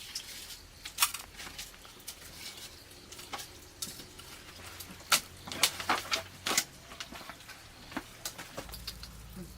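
Irregular clinks and taps of utensils against dishes, a dozen or so sharp strikes spread unevenly, with a cluster of louder ones about five to seven seconds in.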